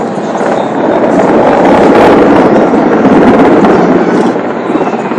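Military aircraft flying low overhead in a parade flypast: a loud rushing noise that swells to a peak about two seconds in and fades toward the end.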